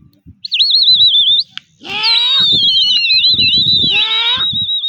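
Shrill, warbling whistling from a pigeon flyer urging his birds aloft: a short trill, then a long wavering whistle of about three seconds. A man's rising shouts cut in around two and four seconds in.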